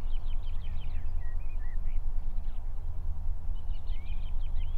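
A songbird singing two quick chirping phrases, one at the start and one near the end, over a steady low rumble.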